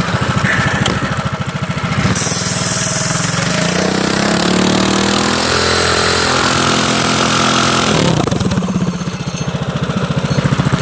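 Minibike's Predator 212 Hemi single-cylinder four-stroke engine idling, then revved hard about two seconds in with a hiss of the rear tire spinning in a burnout. The engine climbs in pitch and is held high for several seconds before dropping back to idle near the end.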